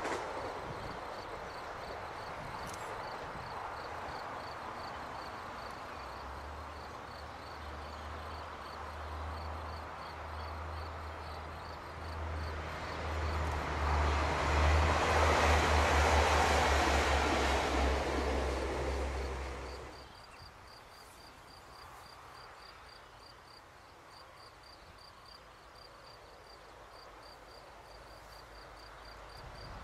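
AGC regional train passing: the rumble and hum of the running train grow to a peak about fifteen seconds in and then stay loud. A steady low tone sits under the noise. About twenty seconds in the sound drops abruptly to a much quieter outdoor background, which swells again near the end as a distant train draws closer.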